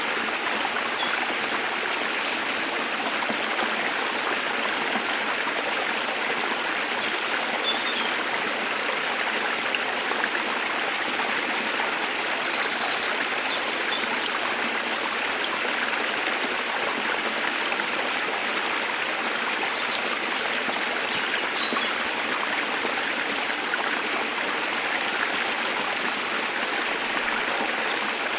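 Waterfall's water pouring and splashing in a steady rush, with a few faint, brief bird chirps scattered over it.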